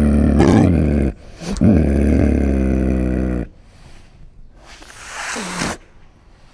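A large animal's deep, drawn-out calls: two long low calls, the second starting about a second and a half in, then a shorter, fainter call that falls in pitch near the end.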